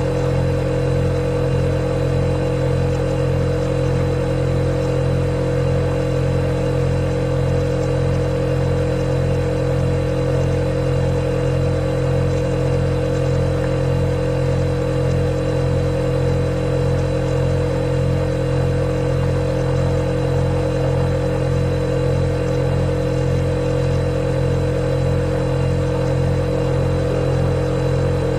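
Refrigerator compressor running with a steady, unbroken hum, several fixed tones over a faint, quick low pulsing.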